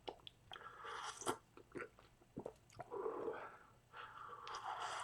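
A person chewing a mouthful of sausage, egg and biscuit sandwich, with irregular soft mouth clicks and smacks.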